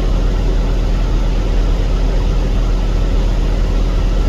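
CNG side-loader garbage truck driving at freeway speed, heard from inside the cab: a steady, loud, deep engine and road rumble that cuts off suddenly at the end.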